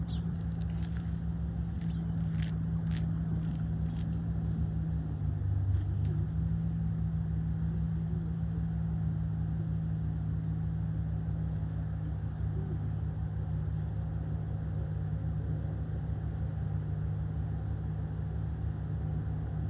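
A steady low mechanical hum, like a motor or engine running, with a few faint clicks about two to three seconds in.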